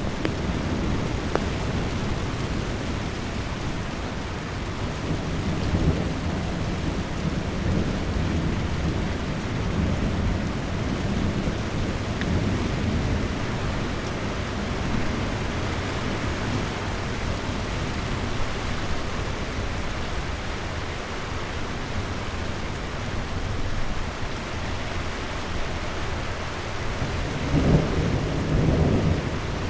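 Thunder rumbling on and on over a steady hiss of rain, with a louder rumble near the end.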